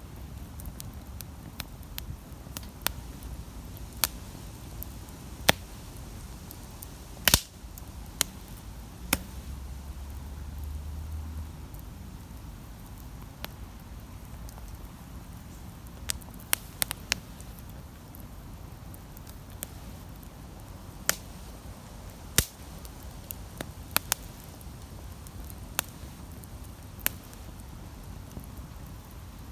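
Wood campfire crackling, with irregular sharp pops and snaps over a low steady rumble. A low hum swells for a couple of seconds about ten seconds in.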